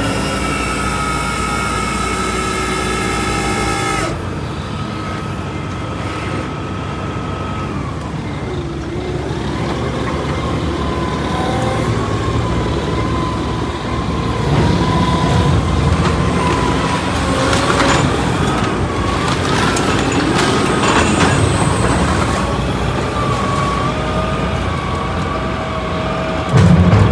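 Truck running, with a wavering whine over its rumble. The sound changes abruptly about four seconds in, and there is a louder low rumble near the end.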